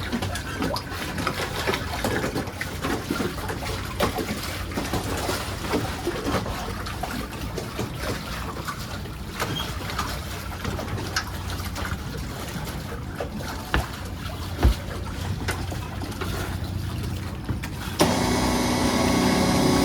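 Tohatsu 20 hp outboard motor running steadily on an inflatable dinghy, with water trickling and splashing around it. Music comes in near the end.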